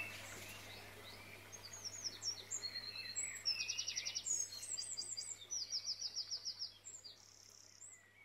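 Songbirds singing: quick high chirps and rapid trills of repeated notes, strongest in the middle and fading near the end.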